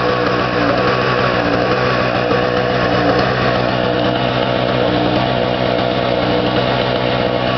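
Small 1,000-watt two-stroke generator engine running steadily at a constant speed, warming up shortly after a cold start following eight months unused.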